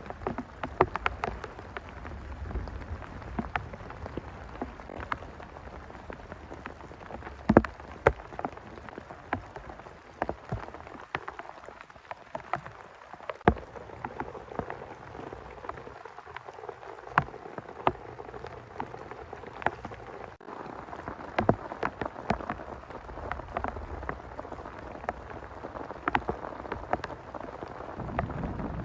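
Rain falling steadily, with many large drops striking a nearby surface in sharp, irregular taps. A low rumble of thunder begins near the end.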